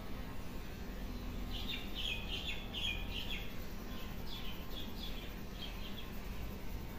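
Bird chirping: a quick cluster of short, high chirps starting about a second and a half in, then a few scattered ones, over a steady low background noise.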